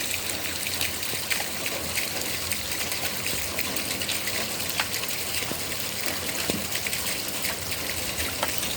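Steady rush of running water, with a fine patter of drops and splashes.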